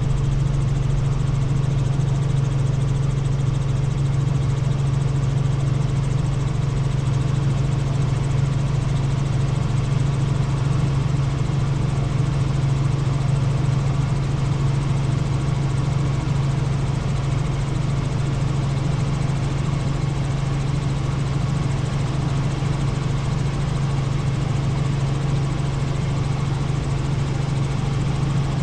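Helicopter in flight, heard from on board: the rotor and engine keep up a steady low drone that does not change.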